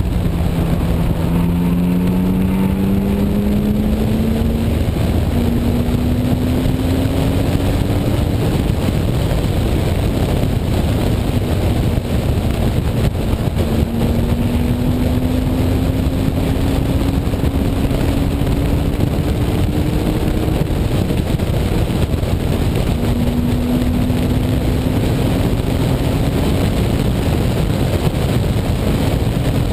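1998 BMW E36 M3's straight-six engine heard from inside the cabin under load on track. Its pitch climbs slowly in long pulls, easing back twice before climbing again, over steady wind and road rumble.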